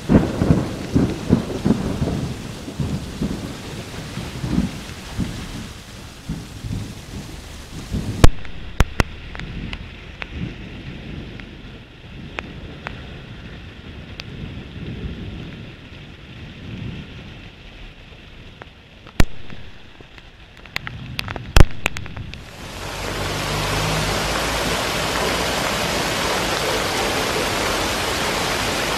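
Heavy rain on a street. The first part has uneven low rumbling and the middle a few sharp clicks, then about three quarters of the way through it changes to a steady, loud downpour hiss.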